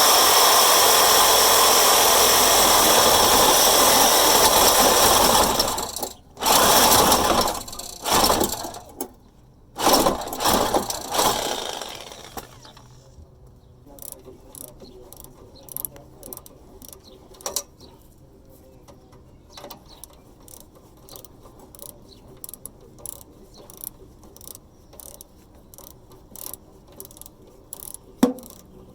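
Hyper Tough corded power tool running steadily as it cuts through the exhaust pipe, then let off and triggered again in three short bursts about six to eleven seconds in. After that only faint scattered ticks and clinks of metal are heard.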